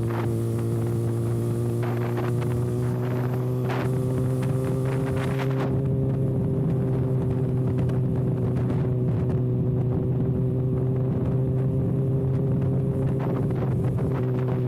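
Kawasaki ZX6R inline-four engine running steadily through an exhaust with the silencer canister removed, a constant drone that rises slightly in pitch about five seconds in and then holds.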